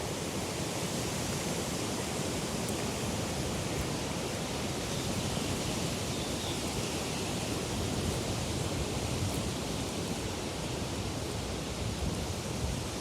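Wind sound effect: a steady rush of wind with a low rumble beneath a high hiss, even in level without distinct gusts.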